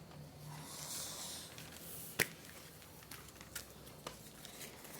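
A soft rustle, then one sharp click about two seconds in, followed by a few fainter clicks.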